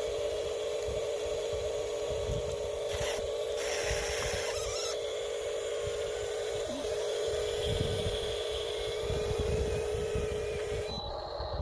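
Small electric motor of a radio-controlled construction model whining steadily, breaking off briefly about two-thirds through before running on. A brief rush of scraping noise comes about three to five seconds in, over a low rumble.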